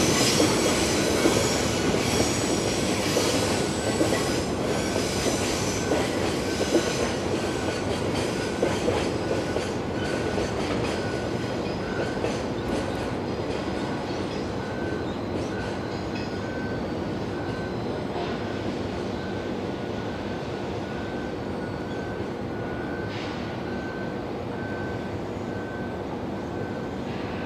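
Container freight wagons rolling past on the rails, wheels clicking over rail joints with an on-and-off high-pitched wheel squeal, the noise slowly fading.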